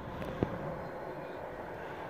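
Steady distant rumble of an electric express train approaching along the line, with a single sharp click about half a second in.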